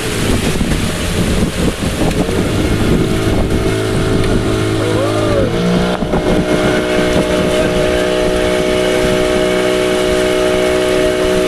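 Motorboat engine running steadily, with wind noise on the microphone. The engine's pitch wavers briefly about five to six seconds in, then holds steady.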